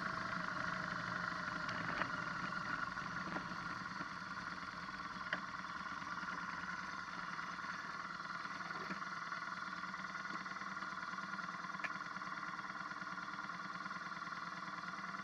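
BMW R1200GS's boxer twin engine running steadily as the motorcycle rolls along a dirt road, with a few light knocks.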